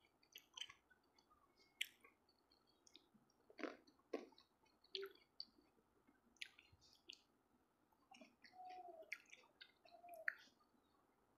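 Faint chewing and mouth sounds of someone eating fruit, with many small scattered clicks and a few louder snaps.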